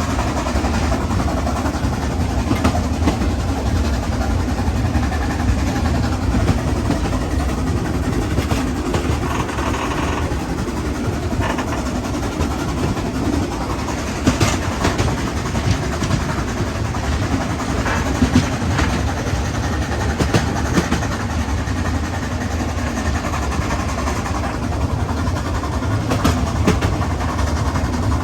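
Narrow-gauge steam train running, a steady low rumble with scattered clicks and knocks.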